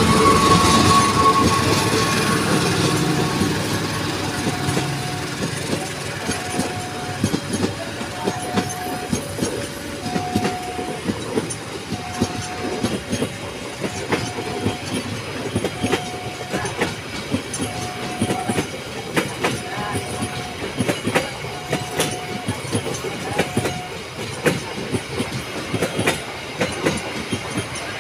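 A train passing at close range, loudest at the start, then its wagons clattering over the rail joints in a dense run of clicks. A short tone repeats about once a second through most of the passage.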